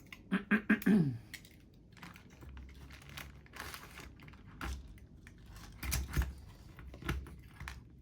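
Light clicks, taps and rustling from small model-locomotive parts being handled and fitted by hand, with a few soft knocks later on. A short murmured hum comes about a second in.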